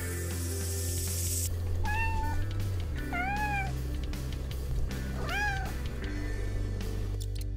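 Domestic cat meowing three times in short calls, the second and third rising then falling in pitch. For the first second and a half the dry buzzing hiss of a rattlesnake's rattle runs on, then cuts off.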